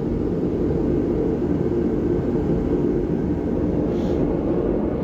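Steady low background rumble, even in level throughout.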